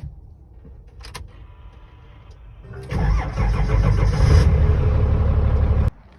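Old truck's engine being started: it cranks and catches about three seconds in, then runs loudly for about three seconds before cutting off suddenly.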